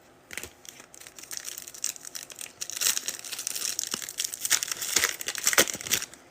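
Foil trading card pack wrapper being torn open and crinkled in the hands. Dense crackling grows louder partway through and stops near the end.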